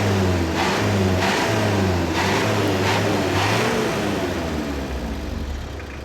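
Isuzu pickup's four-cylinder diesel engine, running on used cooking oil, revved up and down several times, then settling back to a steadier idle about four seconds in.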